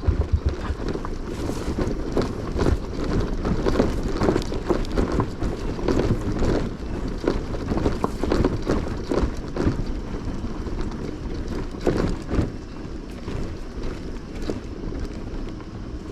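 Wind buffeting the microphone on a moving motorcycle, with the engine running low underneath and irregular knocks and thumps throughout.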